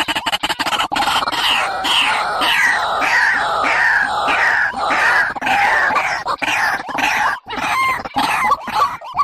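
A bird calling a fast series of short, falling notes, about two to three a second, breaking up with short gaps near the end.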